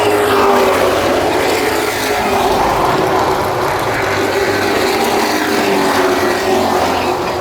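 Race trucks' engines running hard around an oval track, a loud steady engine note that wavers slightly in pitch.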